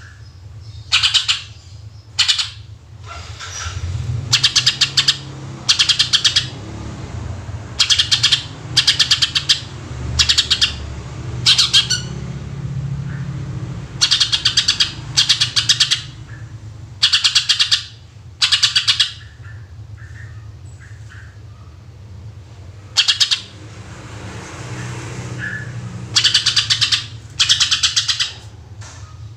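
Greater green leafbird (cucak ijo) singing in loud 'tembakan' bursts: short volleys of rapid, rattling high notes, each about half a second long, repeated every second or two, with a pause of a few seconds past the middle. A steady low hum runs underneath.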